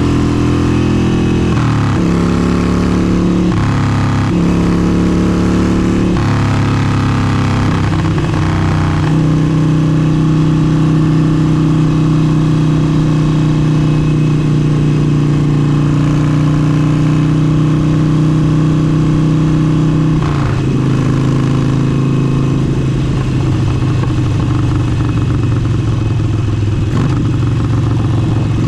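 Harley-Davidson Forty-Eight's air-cooled 1200 cc V-twin running through an aftermarket exhaust. The engine note shifts up and down in steps for the first several seconds, holds a steady pitch from about nine to twenty seconds in, then drops and runs rougher.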